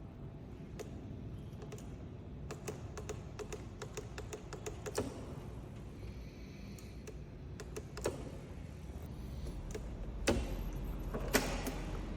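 Light plastic clicks of switches and buttons being pressed on a Vespa GTS 125 keyless scooter: a quick run of clicks, then a few single louder clicks. The engine does not start, as the kill-engine indicator stays on. A low steady rumble comes in near the end.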